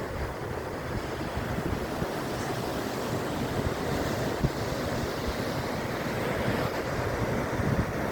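Pacific Ocean surf washing steadily onto the beach, with wind buffeting the microphone in low, irregular rumbles.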